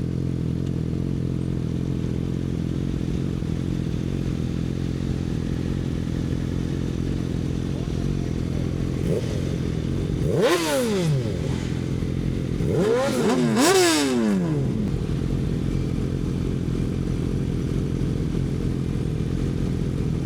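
Yamaha R6 inline-four with an Akrapovič exhaust idling steadily. It is blipped about halfway through: one quick rev that rises and falls, then a couple more revs close together a few seconds later.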